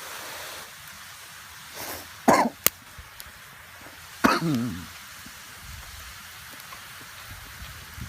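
A person's two short throaty vocal sounds, each falling sharply in pitch, about two seconds apart. A sharp click comes between them.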